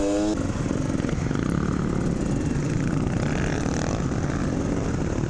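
Two-stroke enduro dirt bike engine running while being ridden, picked up close by a microphone on the rider's camera setup, its note rising and falling with the throttle.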